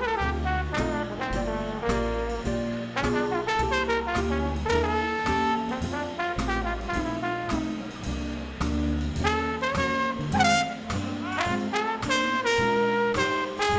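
Swing band playing an instrumental passage: a horn section of trumpet, trombone and saxophones over walking upright bass and drums.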